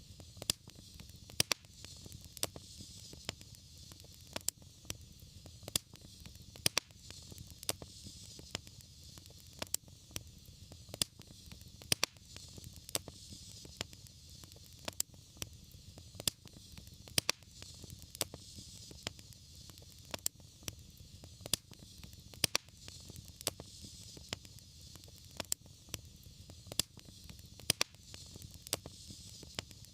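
Wood fire crackling in a fireplace: frequent sharp, irregular pops and snaps over a low steady rumble and a soft hiss.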